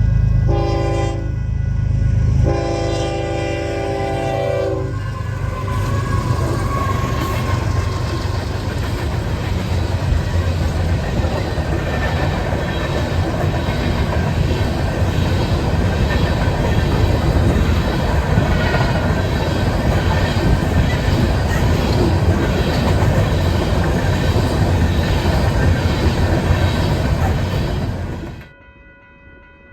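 Train horn sounding two blasts, a short one about a second in and a longer one lasting about two seconds, then the train rumbling and clattering past on the rails. The sound drops off suddenly near the end.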